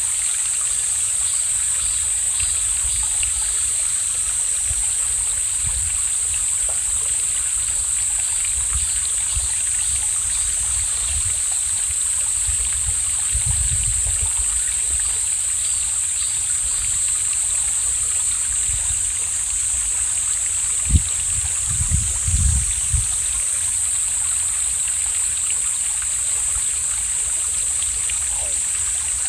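Mountain valley stream flowing steadily, a continuous rushing hiss. About three-quarters of the way through come a few brief low thumps.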